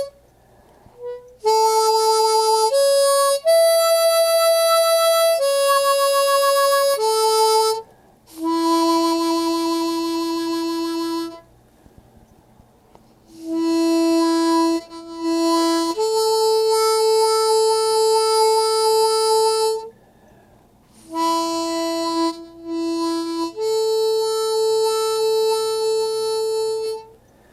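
Harmonica playing a slow melody in long held single notes, with short pauses between phrases.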